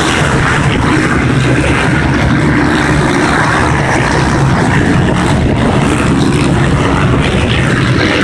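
Many off-road enduro motorcycle engines running at once, a loud, steady, dense drone of overlapping engine notes.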